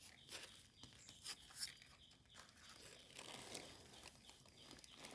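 Faint, scattered rustling, crackling and small snaps of hands working in leaf litter and soil while termite mushrooms (hed plouk) are picked, with a slightly louder snap about a second and a half in.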